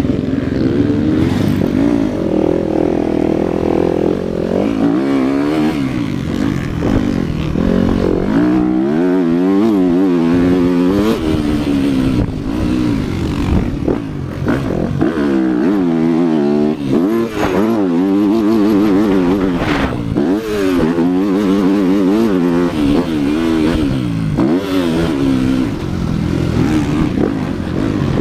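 Motocross bike engine riding the track, revving up and dropping back over and over as the throttle opens and closes, its pitch rising and falling with each cycle.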